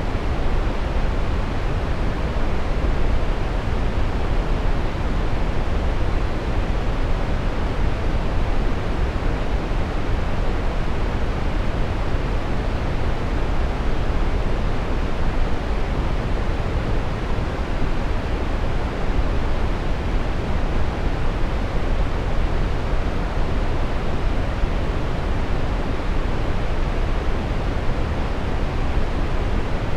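Steady brown noise: an even, unchanging rushing hiss weighted toward the low end, with no events or changes.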